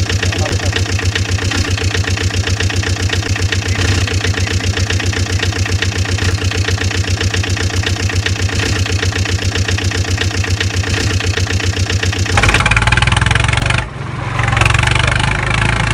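An engine idling with a steady, rapid chugging. About twelve seconds in it switches abruptly to a louder, rougher engine sound, which drops out briefly a second and a half later.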